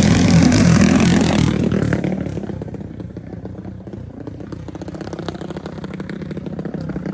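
Drag-racing vehicles' engines at full throttle, loud for about two seconds and then fading as they run away down the strip.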